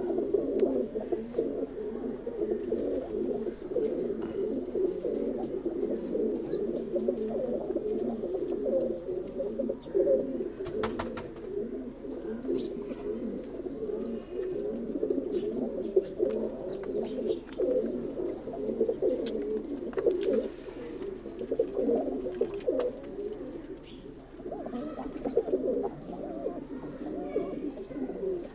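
Many domestic pigeons cooing at once, a continuous dense chorus of overlapping low coos, with a few faint clicks around the middle.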